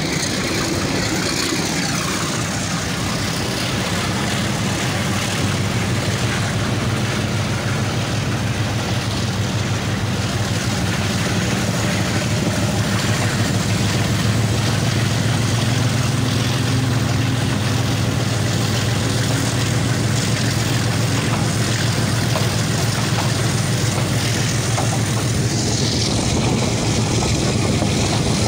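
Passenger train running on the track, heard from inside a coach at an open window: a steady low rumble of wheels on rails that grows slowly louder as the train gathers speed on departure.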